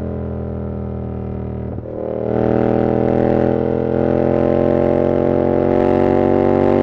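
Yamaha R7's 689 cc parallel-twin engine through an SC-Project CR-T exhaust, running under way. There is a brief break in the sound just under two seconds in, then it comes back louder with a slowly rising pitch as the bike pulls.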